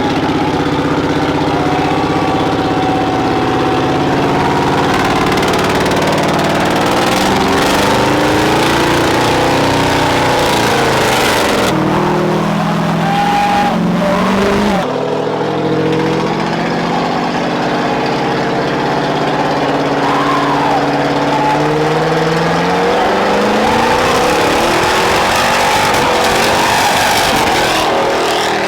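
Loud truck exhausts revving, the engine pitch climbing and falling again and again, with the sound cutting abruptly to another engine twice near the middle.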